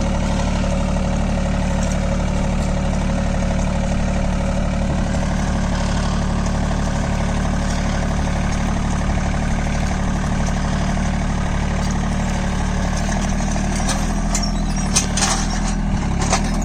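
A John Deere 3028EN mini tractor's three-cylinder diesel engine running steadily. A few sharp clicks or knocks come near the end.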